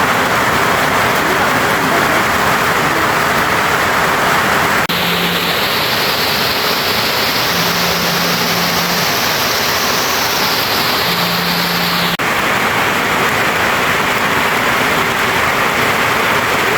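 Steady, loud rush of water, changing abruptly about 5 seconds and again about 12 seconds in as if cut between takes.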